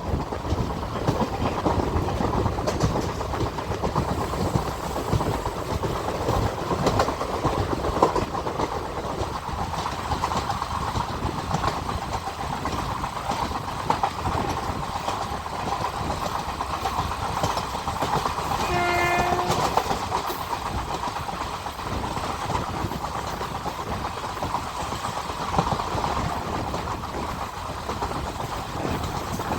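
Passenger train running at speed, heard from aboard: a steady rumble with wheels clicking over the rail joints. About two-thirds of the way through, a train horn sounds once, briefly.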